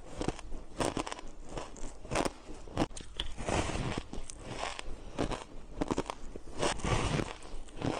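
White shaved ice being bitten and chewed up close, a run of irregular crisp crunches and crackles.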